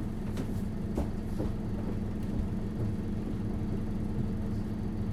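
Isuzu Erga city bus's four-cylinder diesel engine idling steadily, heard from inside the cabin while the bus stands at a stop, with a couple of light clicks.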